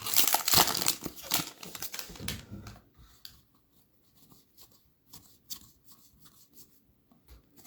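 Crinkling and tearing of trading-card pack wrappers as blaster-box packs are ripped open, dense for about the first three seconds. After that come only scattered soft clicks and rustles of cards being handled.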